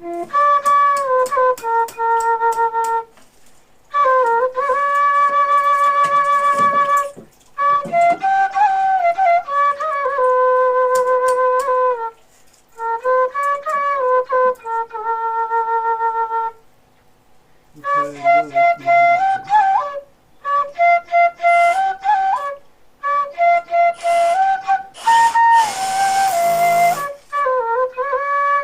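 Background music: a flute-like melody played in short phrases, its notes sliding between pitches, with brief pauses between phrases.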